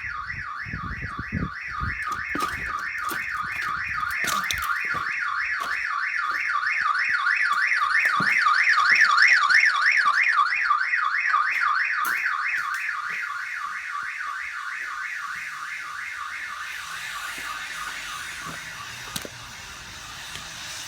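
Electronic house alarm siren wailing in a fast, even warble, growing louder toward the middle and then fading away over the last few seconds. A few scattered knocks and clatters sound under it near the start.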